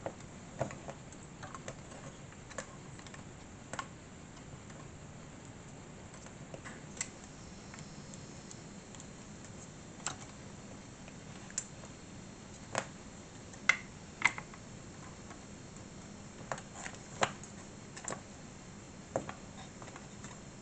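Small model-kit parts and tools being handled: scattered, irregular light clicks and taps of plastic and metal pieces, with a couple of sharper clicks about two-thirds of the way through.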